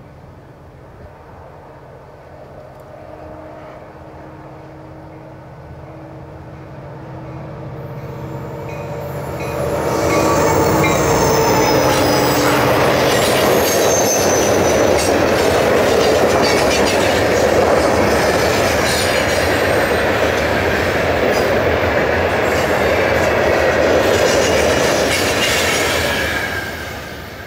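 A CN rock train's EMD diesel locomotive approaching with a steady engine drone that grows louder. About ten seconds in, the loaded rock hopper cars roll close past: a loud wheel-on-rail rumble with squealing wheels and clicking over the rail joints, easing off near the end.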